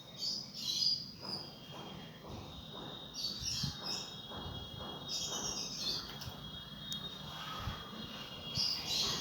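A bird calling in several separate bursts of high chirping notes, with a steady thin high-pitched buzz underneath.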